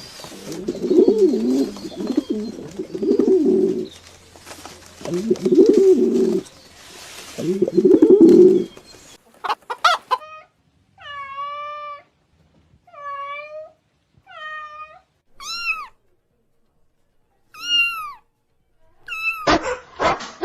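Pigeons cooing in repeated low calls for about the first nine seconds. Then a kitten meowing, a series of high, drawn-out calls with gaps between them. About a second before the end, a dog starts barking.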